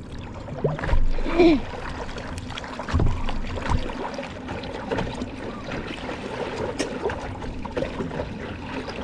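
Paddleboard being paddled on the sea, with water lapping and splashing around the board. There is a short wavering call about a second and a half in, and a low thump about three seconds in.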